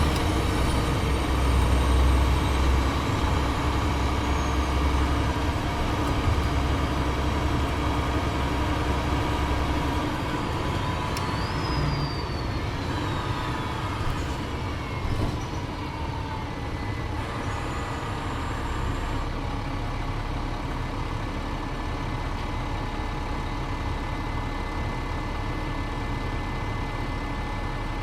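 Cummins ISL diesel engine and Voith transmission of a 2007 Gillig Advantage transit bus as the bus slows. The engine is loudest over the first ten seconds, with two high whines falling in pitch, one at the start and one about eleven seconds in. About nineteen seconds in it settles to a steady, quieter run, close to idle.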